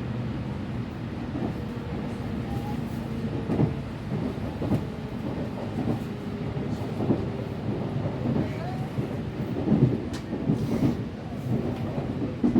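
Interior of an electric local train running into a station: steady low rumble of the car with irregular wheel and rail clatter, and a faint motor tone that falls slightly as the train slows.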